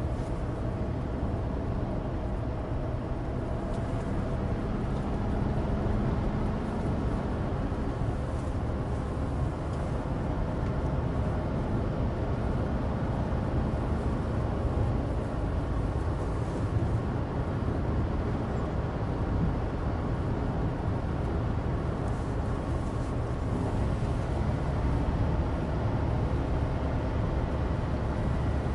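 Inside the cabin of a Suzuki Alto Turbo RS on the move: a steady low rumble of road and tyre noise from studless winter tyres on dry asphalt, with the small three-cylinder turbo engine running underneath.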